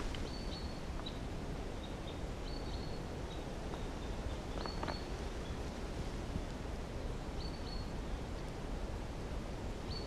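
A small bird repeating a short, high, even call about every two and a half seconds, over a steady low background noise.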